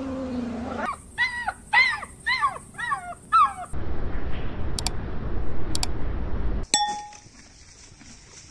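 Cheetah chirping: about five short, high, bird-like calls in quick succession, each rising then falling in pitch. They are followed by a stretch of low rumbling noise that stops suddenly a little before the end.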